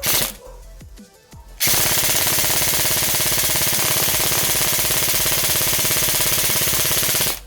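E&C HK416 airsoft electric gun firing on full auto: a brief shot at the start, then, under two seconds in, one long unbroken rapid-fire burst of over five seconds that stops abruptly near the end.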